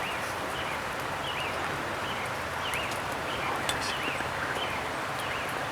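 Steady hiss of wet woodland ambience, with short chirping bird calls repeating irregularly and a few faint ticks.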